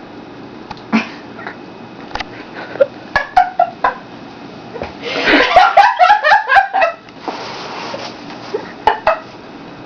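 A woman's high-pitched, squealing laughter. Short squeals come in the first few seconds, then a loud rapid string of shrieking laughs about five to seven seconds in, then two more squeals near the end.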